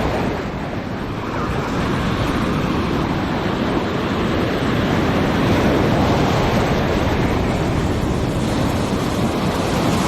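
Ocean surf breaking on a beach, a continuous rushing wash that swells and eases, with wind buffeting the microphone.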